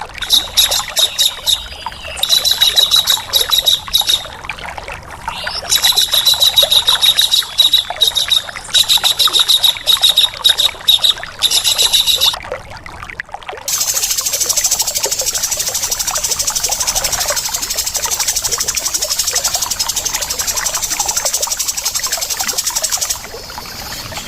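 Harsh, rasping calls of a tengkek udang (dwarf kingfisher) and a cucak jenggot (bulbul) in a bird-mastering recording: several bursts of very fast rattling trills during the first twelve seconds or so, then one long unbroken rapid rattle from about fourteen seconds until shortly before the end.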